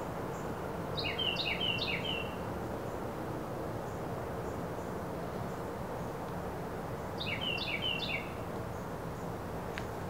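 A bird singing two short phrases about six seconds apart, each a quick run of three or four notes falling in pitch. Under it runs a steady low background noise with faint high insect ticking.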